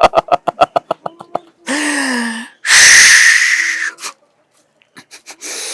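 A man's wordless vocal effects in a drunken-Devdas impression: a quick run of laughter fading out, a short falling groan, then a long, loud breathy exhale, with softer breaths near the end.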